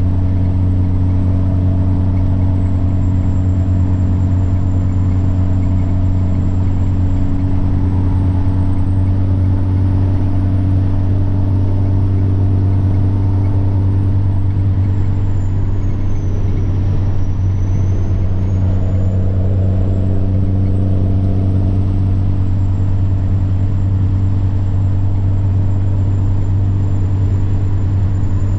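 Semi truck's diesel engine running steadily at cruise with a deep hum, over which the turbocharger whines high. The whine dips in pitch just past the middle and rises again.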